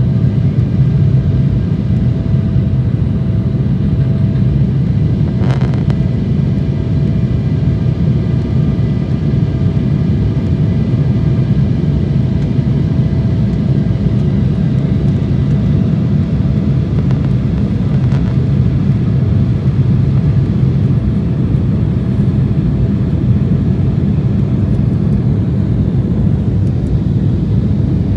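Steady airliner cabin noise: a low drone of jet engines and rushing air heard inside the cabin, with a faint steady hum above it and a brief click about five seconds in.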